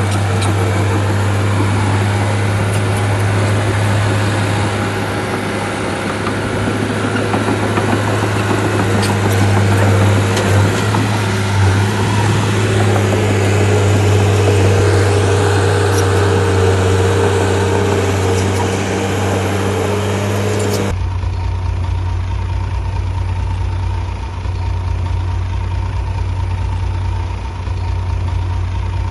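Bulldozer diesel engine running with a steady low hum. About two-thirds of the way through the sound cuts abruptly to another take of the engine idling with a fast, low throb.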